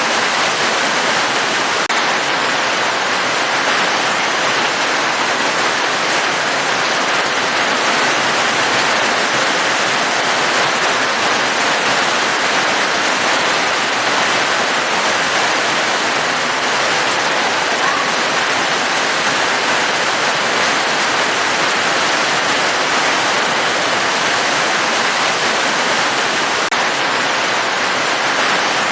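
Steady, even hiss of falling rain with no let-up or change.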